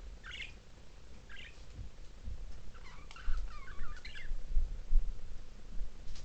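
Budgerigars chirping: two short chirps, then a burst of quick warbling chatter around the middle, over a low rumble with a few bumps.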